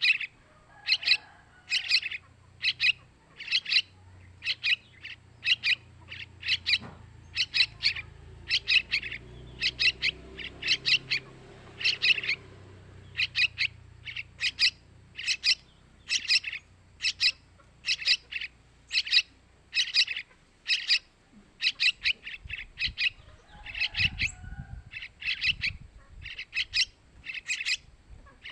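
Sooty-headed bulbul chick calling over and over, short high calls repeated about one and a half times a second.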